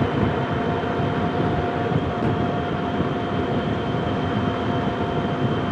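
Motorcycle on the move heard from a helmet-mounted microphone: a steady rush of wind and engine noise, with a thin constant whine above it.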